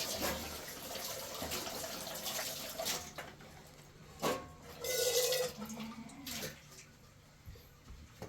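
Water pouring and splashing into a vessel, then a short knock of a dish about four seconds in.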